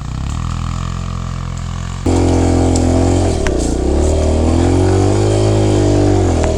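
Dirt bike engine pulling up a hill. It runs at part throttle at first, then about two seconds in the throttle opens sharply and it runs much louder, its pitch sagging and then climbing again under load.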